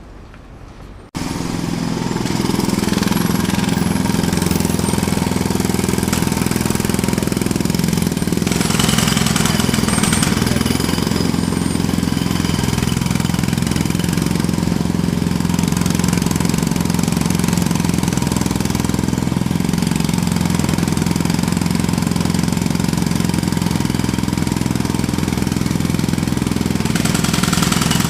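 Jackhammer starting abruptly about a second in and hammering continuously, with a steady engine hum underneath.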